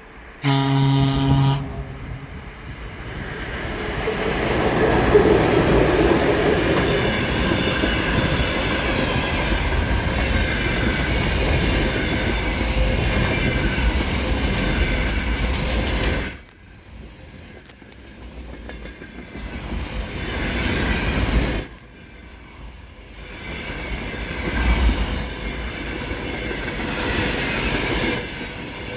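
Container freight train passing through a station. It opens with a short blast of the locomotive's horn, about a second long, then the wagons' wheels rumble and clatter over the rails, loud for over ten seconds. After that the sound falls away and swells again twice.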